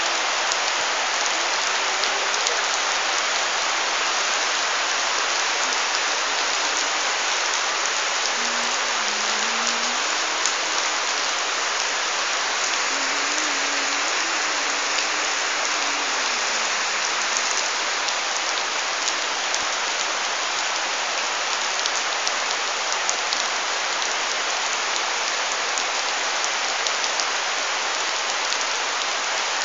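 Heavy rain falling steadily on waterlogged ground and garden plants, an even hiss of downpour with scattered drip ticks.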